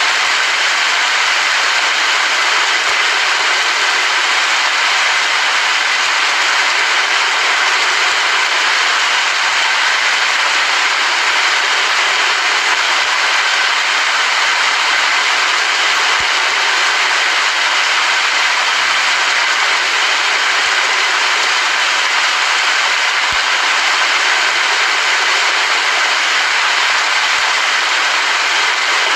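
Steady rain falling, a loud, even hiss that never lets up.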